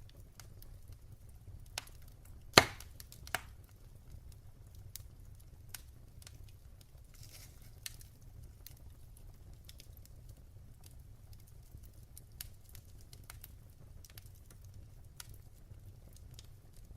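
Fireplace fire crackling, with scattered small snaps over a low, steady rumble. One sharp, loud pop comes about two and a half seconds in, with two smaller pops just before and after it.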